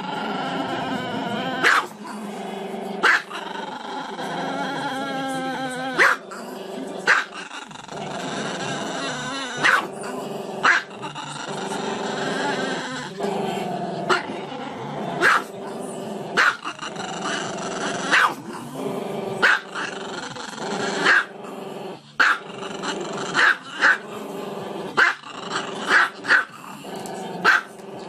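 Small black-and-tan dog howling with its head raised: long, wavering howls broken by many short, sharp barks.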